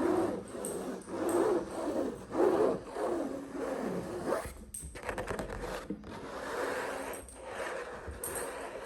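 Fingernails scratching and rubbing over a textured object in repeated strokes, with a quick run of fine clicks about five seconds in.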